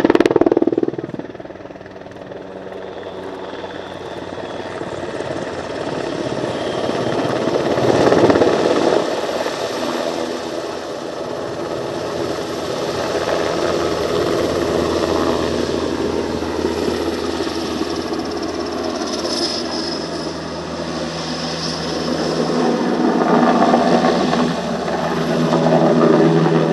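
NH90 helicopter flying a display, its rotor and turbine engines running steadily and swelling louder as it passes, about eight seconds in and again near the end.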